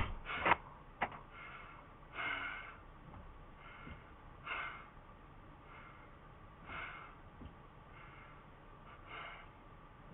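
Close breathing into a body-worn camera microphone, soft breaths about every two seconds, after a few sharp clicks in the first second.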